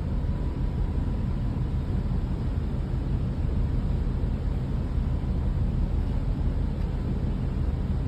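Steady low machinery rumble of a large ship heard on its bridge, with a thin steady tone near the top of it and no change.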